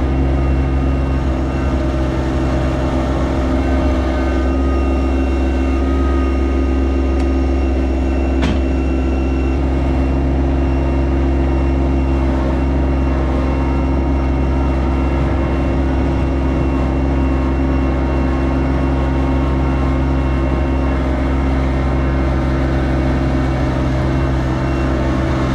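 Yanmar SA324 compact tractor's diesel engine running steadily at constant speed, with one sharp click about eight seconds in.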